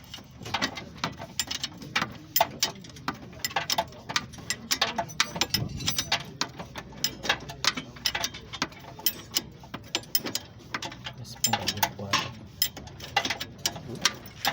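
Ratchet wrench clicking in quick runs of sharp metal clicks, with short pauses between, as suspension bolts are worked.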